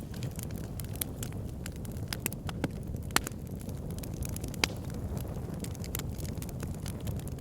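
Backyard fire pit crackling, with frequent sharp pops and snaps over a steady low rumble. Two pops stand out louder, about three and four and a half seconds in.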